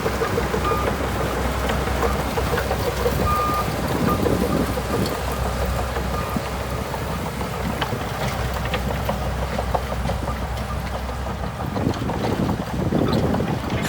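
Bulldozer's diesel engine running steadily, with wind buffeting the microphone. A few short high tones sound in the first half.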